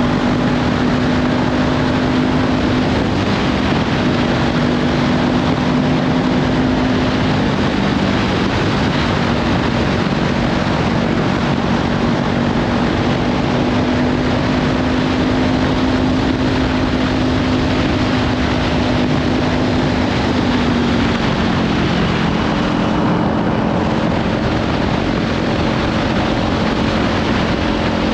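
Kawasaki Ninja 500 parallel-twin with a Leovince slip-on exhaust running at a steady cruise, heavily buried under wind noise on the microphone. The engine note dips a little about 21 seconds in, then holds steady again.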